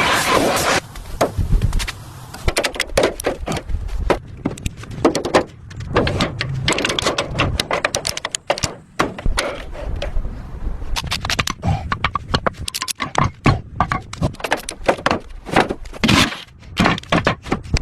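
Workshop work on the car: a quick, uneven run of knocks, taps and scrapes, with a loud hissing rush in the first second.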